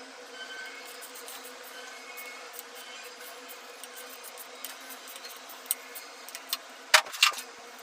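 Metal parts or tools clinking and clicking in a few sharp strikes, the two loudest close together about seven seconds in, over a steady low electrical hum.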